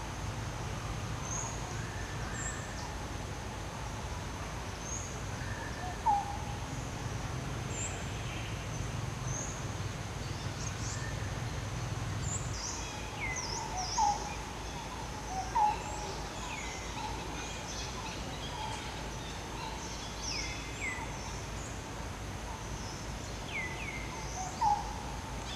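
Wild birds calling: scattered short chirps and quick downward whistles, a few of them louder, over a steady thin high-pitched drone.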